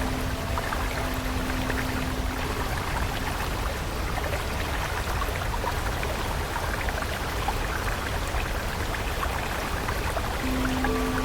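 Steady rush of flowing stream water. A low held musical tone lingers for the first three seconds or so, and another begins near the end.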